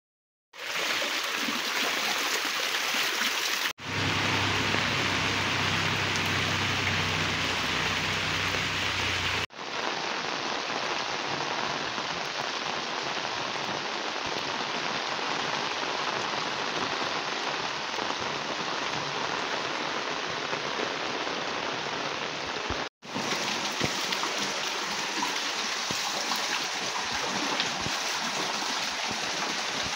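Heavy rain falling on paving and roofs, a dense steady hiss, broken three times by abrupt cuts where the recording changes. A low hum sits under the rain for several seconds after the first cut.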